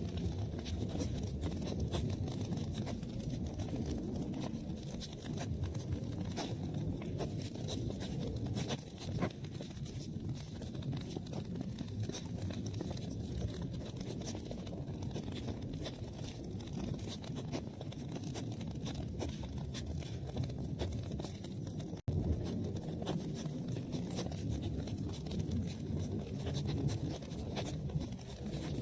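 Wood fire in a fireplace crackling and popping over a steady low rumble of flames; the sound cuts out for an instant about two-thirds of the way through.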